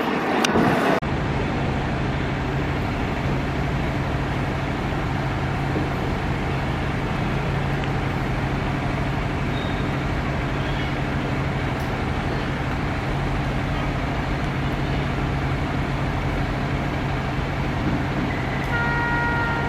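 Train at a railway station: a steady running rumble with a low, even hum. The sound changes abruptly about a second in, and a few short high tones come in near the end.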